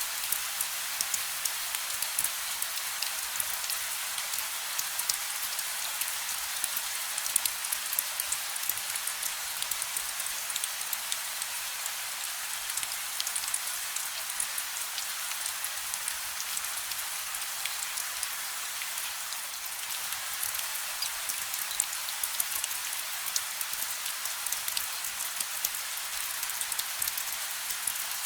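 Steady gentle rain: an even hiss with many individual drops pattering and ticking on a surface, and no thunder.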